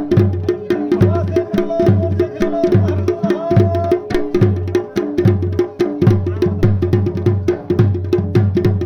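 Garhwali dhol-damau drumming accompanying a Pandav dance: deep, booming strokes about twice a second in a steady rhythm, with quick, sharp strokes filling the beats between them.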